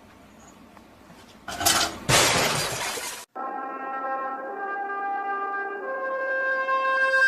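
A loud crash about a second and a half in, lasting a little over a second and cut off abruptly. Then music with long held notes.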